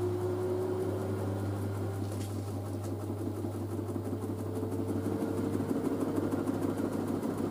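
LG DirectDrive F1496AD washer dryer spinning a load of towels: the direct-drive motor's whine rises slowly in pitch as the drum speeds up, over a steady low hum. A rougher rumble from the tumbling load grows louder in the second half.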